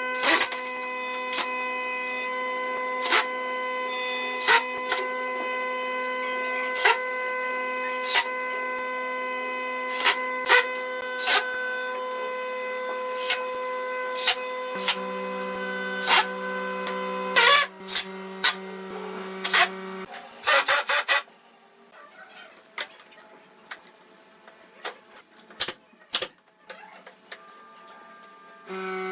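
A machine in a workshop running with a steady whine, with sharp clicks and knocks at uneven intervals. Its pitch steps down about halfway through. The whine cuts out after a burst of clicks, leaving quieter, scattered ticks, then starts again at the very end.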